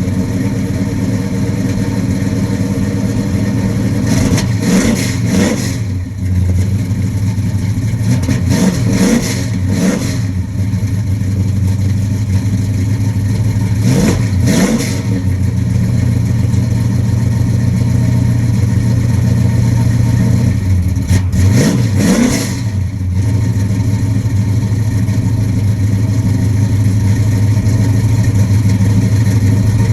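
1968 Chevrolet Chevelle engine running cold just after starting, idling steadily and blipped four times, each rev rising and falling back to idle within a second or two.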